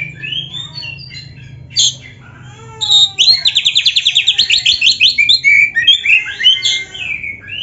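Oriental magpie-robin (kacer) singing a varied song of clear whistled and chattering phrases. Near the middle comes a fast trill of about ten notes a second, then more mixed phrases.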